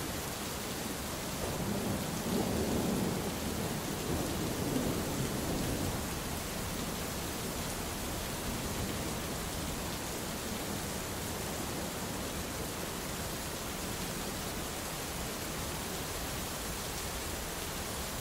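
Steady heavy rain hissing, with a low rolling rumble of thunder that swells about two seconds in and fades away after about six seconds.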